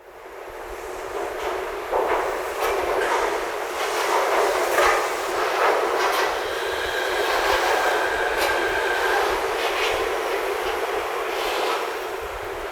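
Train running along rails, its wheels clicking over the rail joints, with a faint steady whine joining about halfway through.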